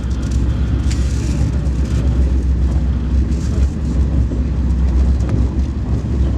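Alfa Pendular (Pendolino) electric train running, a steady low rumble with a faint click about a second in.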